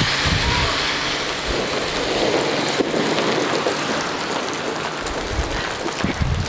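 Heavy rain pouring down, dense drops pattering on an umbrella overhead, easing a little toward the end.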